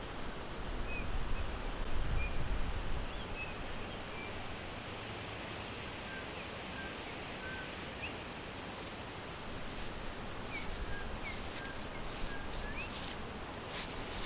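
Forest birds chirping: short, scattered high chirps, some rising or falling, over a steady hiss of forest ambience, with a low rumble about two seconds in.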